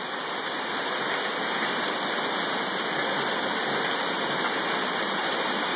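Heavy rain pouring down: a steady, dense hiss that builds a little over the first second or so, then holds.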